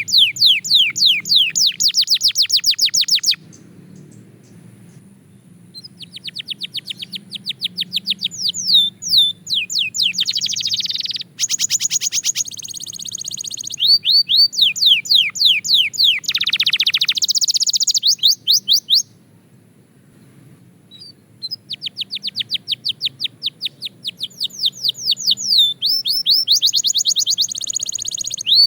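Belgian canary singing: phrases of fast trills made of quickly repeated falling notes, with buzzier rolls between them. The song breaks off briefly twice, about three seconds in and again near two-thirds of the way through.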